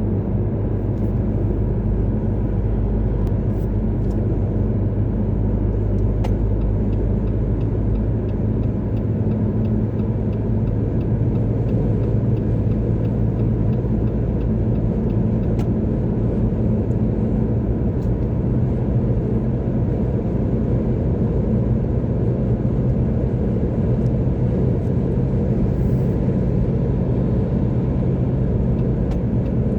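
A car driving along a motorway: steady low road and engine rumble. The deepest part of the rumble eases about eight seconds in.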